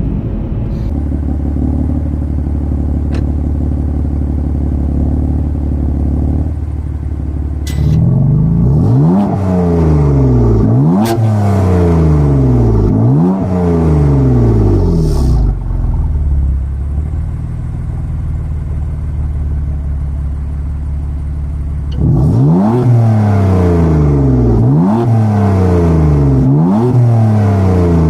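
Stock BMW F80 M3's twin-turbo inline-six, warm, idling and then blipped up in quick revs that fall back. The exhaust valves are open. The revs come in two groups of three or four, with a stretch of steady idle between them.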